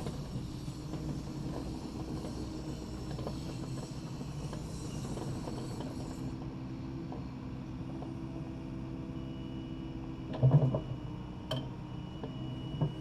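Takeuchi TB260 excavator's diesel engine running steadily, with scattered light knocks and a louder thump about ten and a half seconds in, followed by a sharp click a second later.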